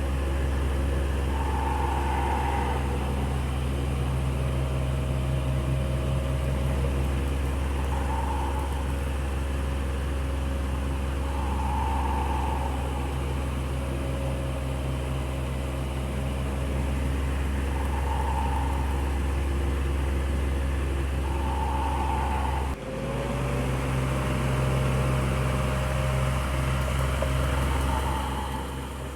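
Electric fan running steadily: a constant low motor hum under a soft rush of air, with a faint tone that swells and fades every few seconds. Late on the hum briefly dips and one of its tones slides slightly higher.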